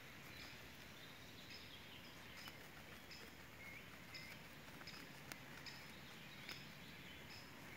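Faint outdoor quiet with a small bird's short, high chirps repeating about once or twice a second, and a soft click or two.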